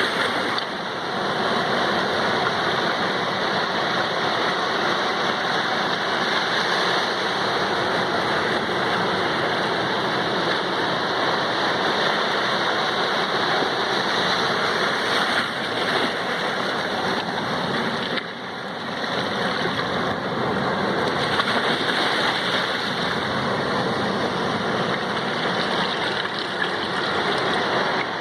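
Sea surf making a steady, unbroken wash of noise, with no single wave breaking out above the rest.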